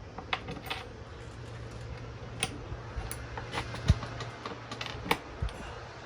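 Irregular small metal clinks and clicks of bolts and washers being handled and set in place, over a steady low hum.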